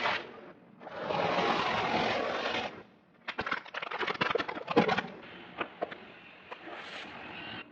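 Objects crunching and crackling as a car tyre rolls over and crushes them: a rush of noise, then a dense run of sharp cracks about three to five seconds in, then a few scattered clicks.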